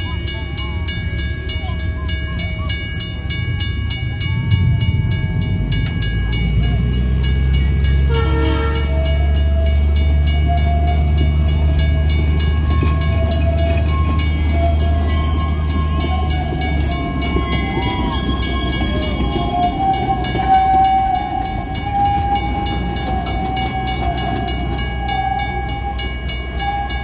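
Excursion train's cars rumbling past over a grade crossing, the rumble heaviest for the middle ten seconds and easing as the last coaches clear, while the crossing bell rings steadily throughout. A wavering squeal joins in after about 8 seconds.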